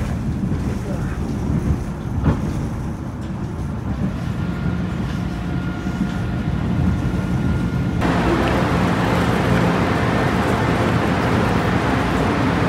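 Low, steady rumble of a rapid-transit train running along the track, heard from inside the car. About eight seconds in, the sound jumps abruptly to a louder, hissier rush of noise.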